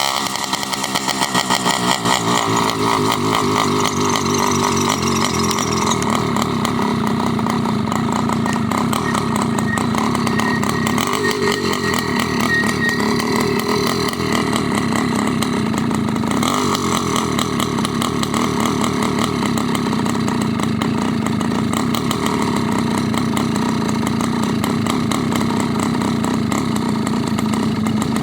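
Motorized bicycle's small engine running steadily while riding, with rapid firing and a faint high squeak that comes and goes, a noise the rider cannot identify.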